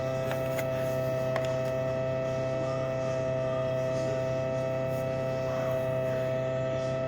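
A steady electrical hum made of several fixed tones, with a few faint clicks in the first second and a half.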